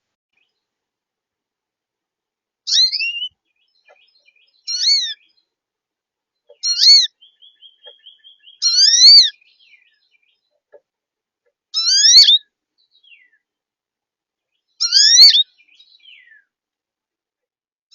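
A songbird singing a short, loud phrase of slurred whistled notes six times, about every two to three seconds, with a fainter run of quick soft notes in between near the middle.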